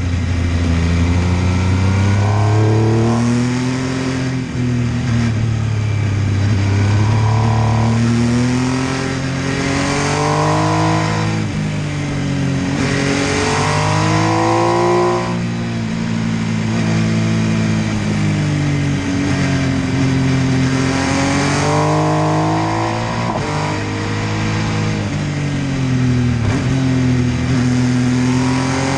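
MV Agusta F3 800's three-cylinder engine accelerating hard, its pitch rising as it revs up and dropping back again several times, as it goes through gears and eases off for bends.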